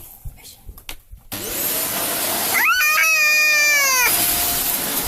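A vacuum cleaner switches on about a second in, its motor winding up to a steady loud hiss. Over it, a cat gives one long, loud meow lasting about a second and a half, rising sharply at the start and sagging at the end.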